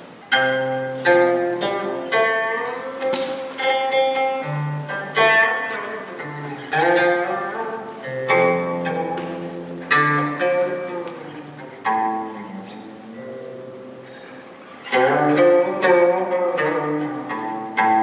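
Chinese plucked zither played solo in a slow, meditative style: single plucked notes and short phrases that ring and fade, several sliding in pitch after the pluck.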